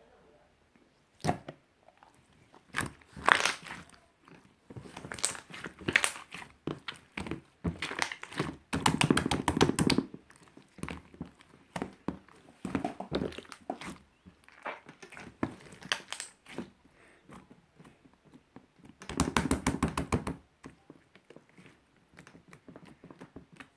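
Slime being squished and pressed by hand, making irregular sticky clicks and pops, with two stretches of rapid crackling pops, about nine and nineteen seconds in.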